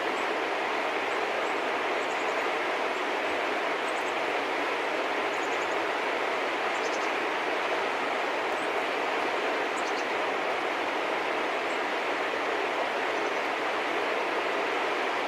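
A steady, even rushing noise with no change in level. Faint, short, high chirps of small birds come through now and then, a few in quick succession around a third of the way in and again about two-thirds in.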